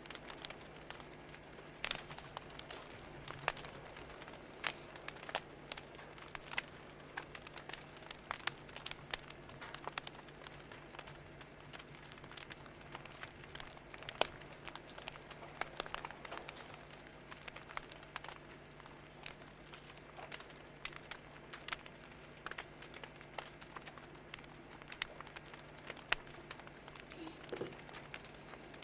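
Fire crackling: irregular sharp pops and snaps, several a second, over a faint steady low hum.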